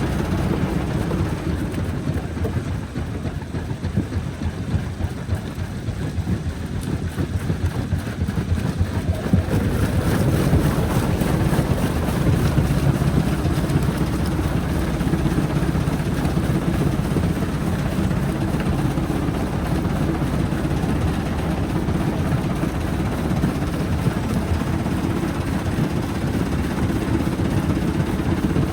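Jaw rock crusher plant running: a steady, heavy mechanical drone with a deep engine hum that grows louder about ten seconds in.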